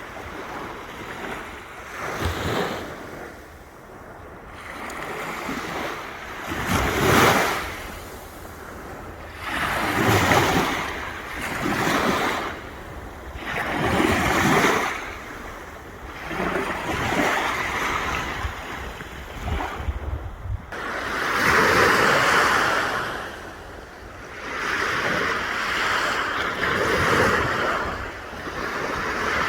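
Sea waves breaking and washing up the shore in repeated swells every few seconds, with wind rumbling on the microphone.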